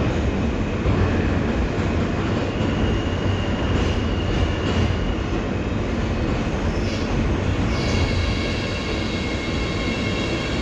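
R160 New York City subway car running on the rails: a steady low rumble of wheels and running gear, joined about eight seconds in by a cluster of steady high tones.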